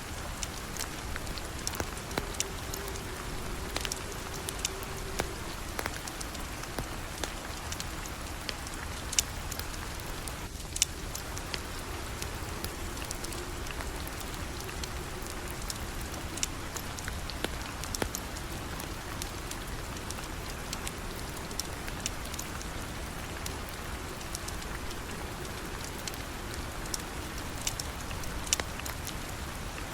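Steady rain falling, with scattered sharp clicks and pops throughout, two louder ones about nine and eleven seconds in.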